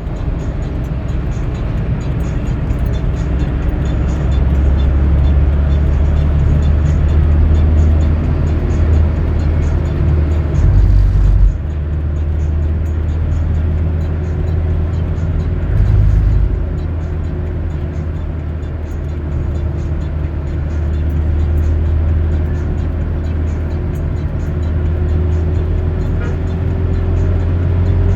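Car driving along a road: a steady low rumble of engine and tyres, with a faint tone that slowly rises in pitch, and two short louder low rumbles about 11 and 16 seconds in.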